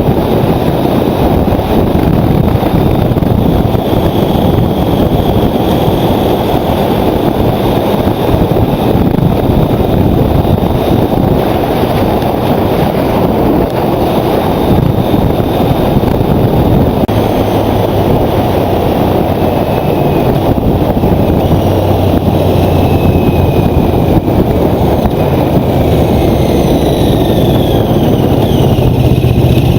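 Motorcycle riding at road speed, with loud, steady wind rush over the microphone covering the engine.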